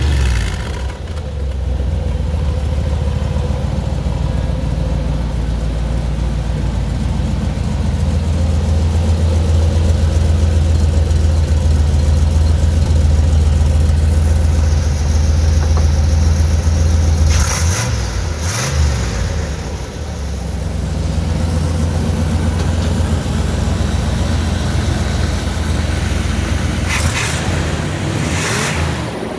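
Engine of a 1969 car running steadily after a cold start, with a couple of brief changes in engine speed about two thirds of the way through.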